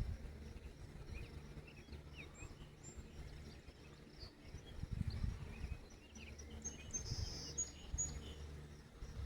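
Birds chirping in short scattered calls, with a brief buzzy trill about seven seconds in, over a steady low rumble of outdoor background noise.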